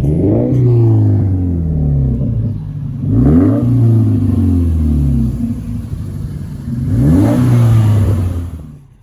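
A car engine revving hard in three surges, about three seconds apart. Each surge rises in pitch and then holds and sinks slowly before the next, and the sound fades near the end.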